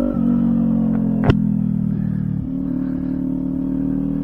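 Kawasaki Ninja 400 parallel-twin with a LeoVince aftermarket exhaust running steadily under way. Its note drops just after the start and changes again about two and a half seconds in. There is a single sharp click about a second in.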